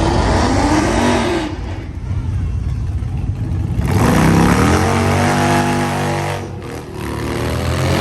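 Car engine revved hard several times: a short rev at the start, then about four seconds in the pitch climbs and holds high, drops briefly, and climbs and holds again near the end.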